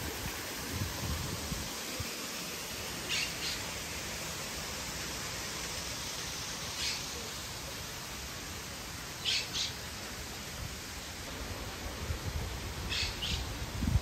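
Short, sharp high bird chirps, mostly in quick pairs, coming every few seconds over a steady background hiss.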